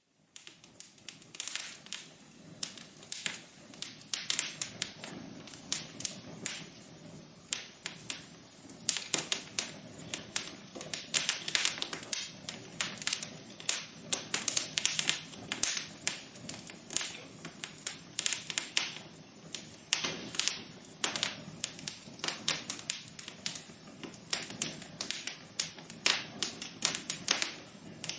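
Wood fire crackling in a fireplace: a dense, irregular run of sharp pops and snaps over a soft hiss. It starts abruptly and grows busier and louder about eight seconds in.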